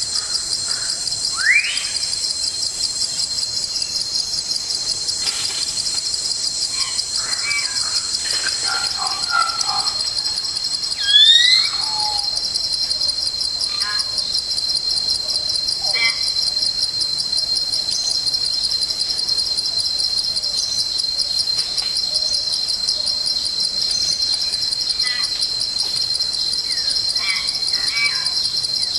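A steady, high, rapidly pulsing insect chorus fills the forest, with a few scattered bird calls over it: short rising whistles, the loudest a pair of upward glides about a third of the way through.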